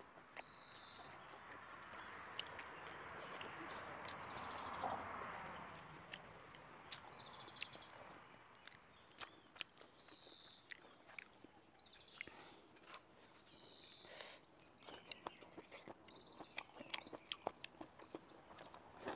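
A person chewing and biting food close to a clip-on microphone, many sharp wet clicks of the mouth throughout. A broad rushing noise swells and fades over the first six seconds, and a few short faint chirps are heard now and then.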